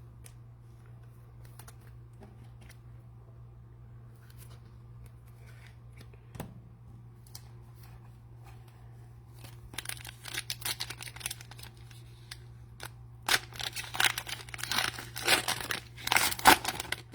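Cellophane wrapper of a pack of football cards being torn open and crinkled, starting about ten seconds in and getting louder over the last few seconds, over a low steady hum.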